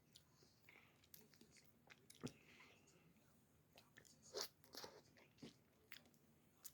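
Faint eating sounds as someone eats ice cream: scattered short mouth clicks and smacks, with a cluster about two-thirds of the way through.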